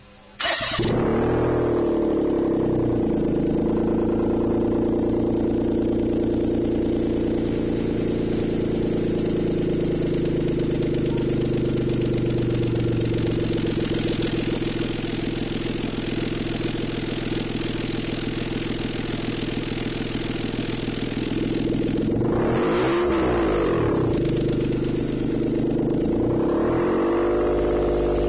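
Daihatsu Esse's 658 cc three-cylinder engine starting about half a second in, then idling steadily through a loud aftermarket exhaust with the stock catalytic converter, an Axel Cole front pipe and an Ellipse W rear piece. Near the end it is blipped once, pitch rising and falling over about two seconds, then a shorter, smaller rev before settling back to idle.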